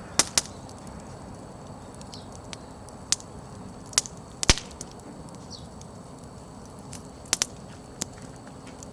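Wood fire crackling: about nine sharp pops of burning firewood, scattered irregularly, some in quick pairs, over a low steady hiss of the flames.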